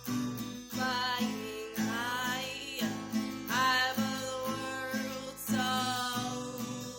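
Acoustic guitar strummed in a steady rhythm, with a voice singing long, wavering notes over it from about a second in.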